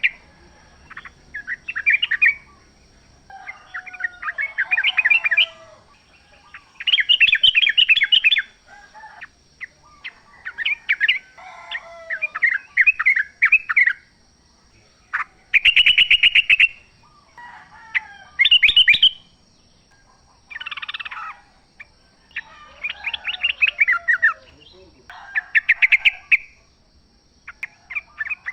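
Wild yellow-vented bulbuls (trucuk) singing: short bubbly, chattering phrases of quick notes, one every couple of seconds, some overlapping as if several birds answer each other.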